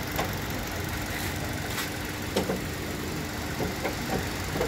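Hyundai Accent engine idling steadily with the air-conditioning compressor engaged, a low rumble with a steady hum, and a few light clicks. The AC is cooling again now that the faulty pressure switch has been dealt with.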